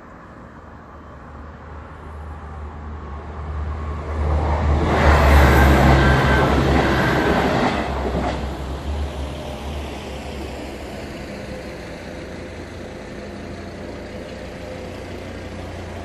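Passenger train passing over a level crossing: its running noise builds steadily, is loudest about five to seven seconds in, then fades away.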